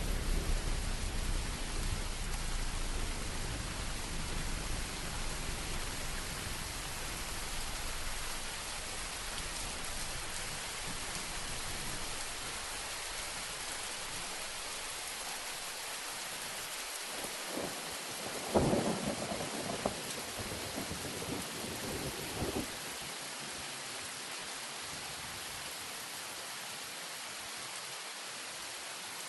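Steady rain hiss from a thunderstorm, with low thunder rumbling away over the first few seconds. A sudden thunderclap comes a little past halfway and rumbles for about four seconds.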